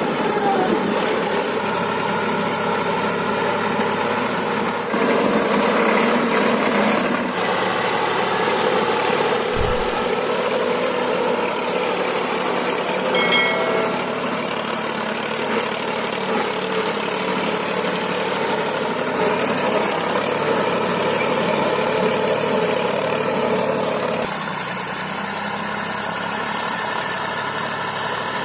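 Solis 5015 tractor's diesel engine running steadily, its sound shifting abruptly a few times. A short low thump comes about a third of the way in, and a brief high tone about halfway.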